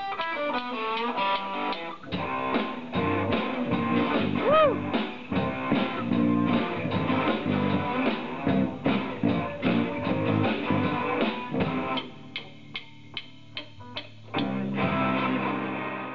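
Live rock band playing, led by electric guitar, with a bent note about four and a half seconds in. At about twelve seconds it drops to a quieter, sparse passage of single hits, and the full band comes back in shortly before the end.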